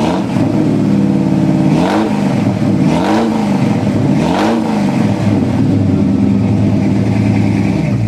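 A 428 cubic-inch V8 with a four-barrel carburettor and dual exhausts, running at idle and blipped three times, each rev rising and falling within about a second, then settling back to a steady idle.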